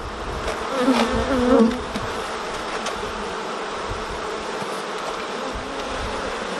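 Honeybee colony buzzing steadily from the open hive during an inspection. About a second in, a louder, wavering buzz briefly rises over the hum, and there are a few faint clicks.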